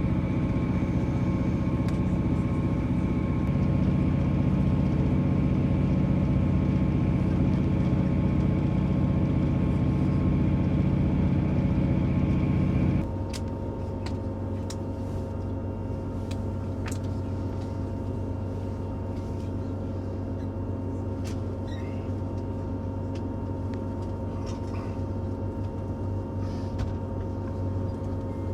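Passenger train running, heard from inside the carriage: a steady low rumble with a hum over it. About 13 seconds in it changes abruptly to a quieter, thinner hum with occasional sharp clicks.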